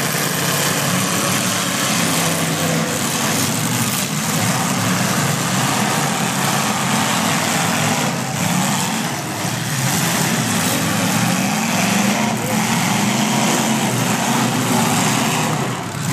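Several demolition derby cars' engines running loud and being revved, their pitch rising and falling over a dense din.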